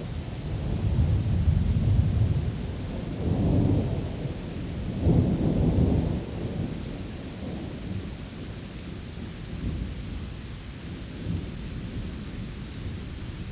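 Steady rain with rolling thunder: a low rumble builds about a second in, swells again twice in the next few seconds, and dies away after about six seconds.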